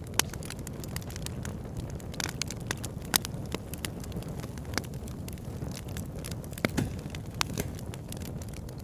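Wood fire burning in a fireplace: a steady low rush from the flames with frequent sharp crackles and pops from the burning logs. The loudest pops come just after the start, about three seconds in and near seven seconds.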